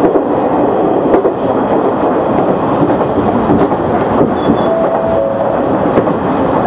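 KiHa 100 diesel railcar running along the line, with steady engine and wheel-on-rail noise and a few sharp clicks from the rail joints.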